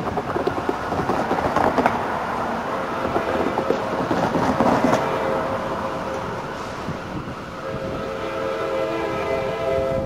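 Amtrak Surfliner F59PHI diesel locomotive approaching, its wheels clacking over the rails and switches. About three-quarters of the way through it sounds its five-chime K5LA air horn, a steady chord held to the end.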